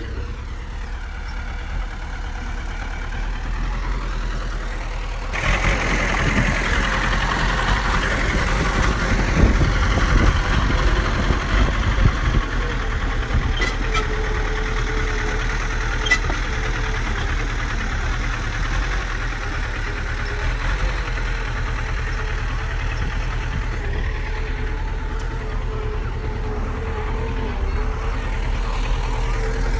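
Bulldozer's diesel engine running steadily, growing louder about five seconds in.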